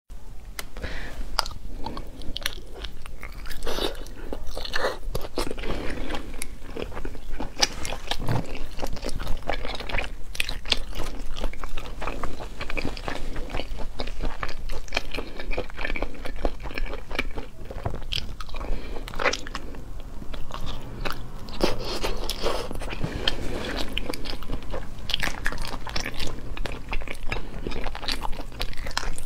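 Close-miked chewing and biting of shelled sea snails in spicy sauce, with many short, irregular crunchy clicks.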